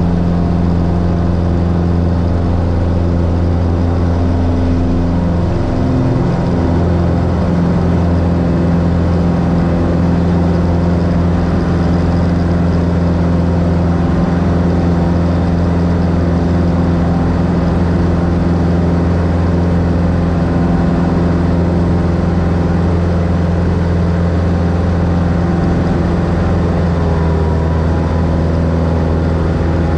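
The piston engine and propeller of a 1964 Cessna Skylane, a six-cylinder Continental O-470, running with a steady drone. Its pitch shifts slightly about six seconds in and again near the end.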